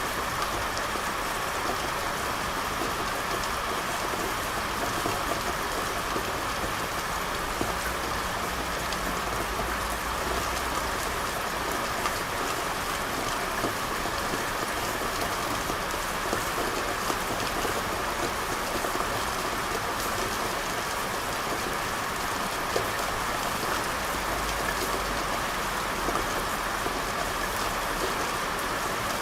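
Steady rain falling on a street, an even hiss with scattered individual drops ticking. A faint low rumble comes and goes underneath.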